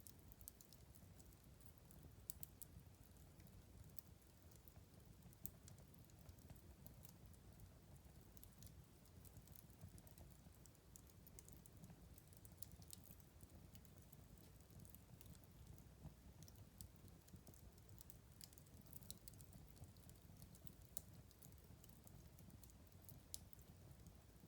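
Wood fire crackling faintly: irregular sharp pops and ticks over a steady low rumble of the burning fire.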